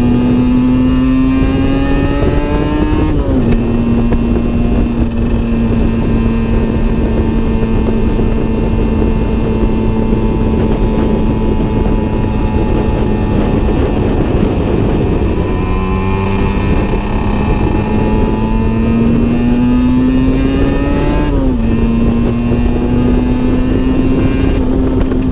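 Aprilia RS 125's single-cylinder two-stroke engine under way, its note climbing steadily and then dropping sharply, as on an upshift, about three seconds in and again about twenty-one seconds in, holding steady in between.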